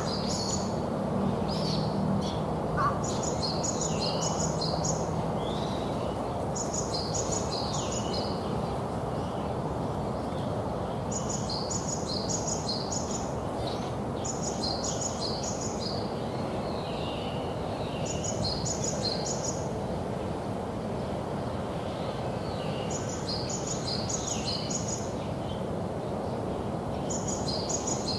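A songbird singing a short phrase of quick, high, repeated notes, over and over every few seconds, with a few softer calls between the phrases. Under it runs a steady background rush.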